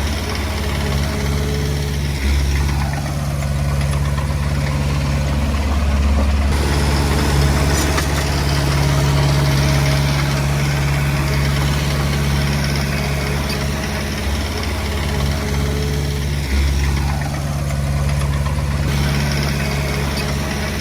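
Diesel engine of a Komatsu D20P bulldozer running steadily while working. Its note steps up about two seconds in and again near the end, and a higher sound glides down and back up twice.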